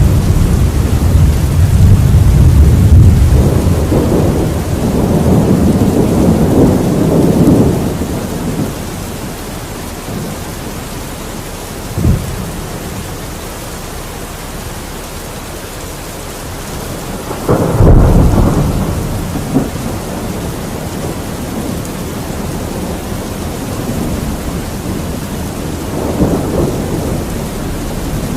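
Thunderstorm with steady rain: a long rolling rumble of thunder through the first several seconds, a short sharp crack about twelve seconds in, a sudden loud clap rolling into a rumble a little past the middle, and a softer rumble near the end.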